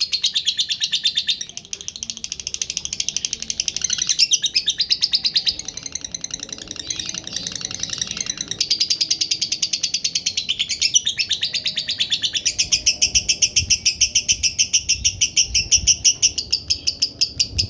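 Lovebird singing one long, unbroken trill of rapid chirps, the continuous 'ngekek' song that lovebirds are bred and trained to hold for as long as possible.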